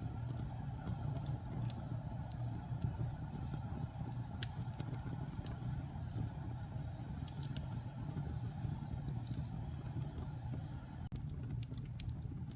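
Wood fire burning in a fireplace: a steady low rumble from the flames, with scattered sharp crackles and pops from the burning wood at irregular intervals.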